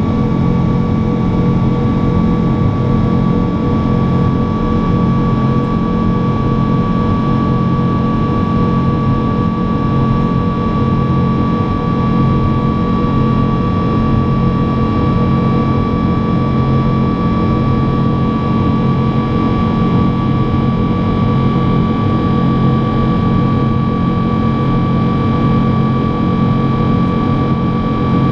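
Boeing 777-200 jet engines running steadily, heard from inside the cabin: a constant loud roar with several held tones over it.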